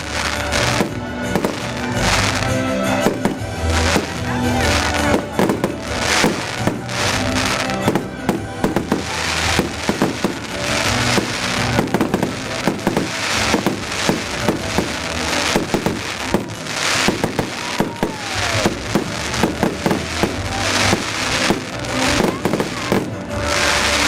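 Fireworks show: shells bursting and crackling, with many bangs in quick succession and dense clusters, over recorded music playing throughout.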